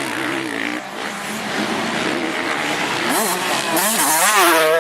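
Motocross bike engines revving hard, their pitch swinging rapidly up and down with the throttle, growing louder about three seconds in as a bike comes close.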